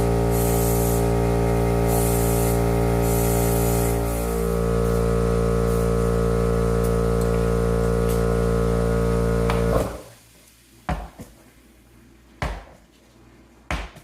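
Air compressor running steadily while air hisses into a lawn-tractor tire through its open valve stem; it cuts off suddenly about ten seconds in, followed by a few short knocks.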